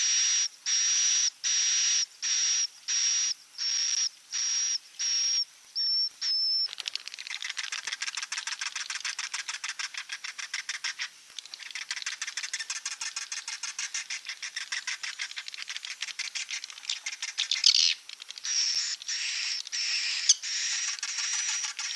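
Recorded swiftlet calls played as a roosting lure: a high chirp repeated about every half second, giving way about a third of the way in to a dense, rapid twittering chatter, with the spaced chirps returning near the end.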